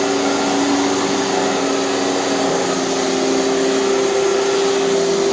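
Hoover canister vacuum cleaner with a powered carpet nozzle running steadily on carpet: a constant motor whine over a rush of air.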